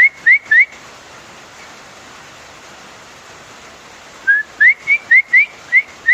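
Bird calling in short, rising whistled notes: three in quick succession, then after a pause about seven more, over the steady hiss of rain.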